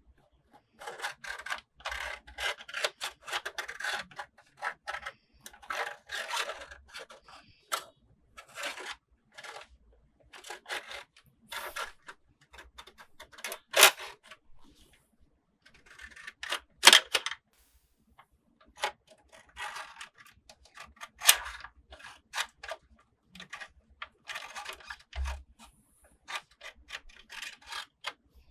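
Toy packaging and plastic toy parts being handled close up: irregular rustling, rubbing and scraping with many small clicks, and a few louder sharp snaps.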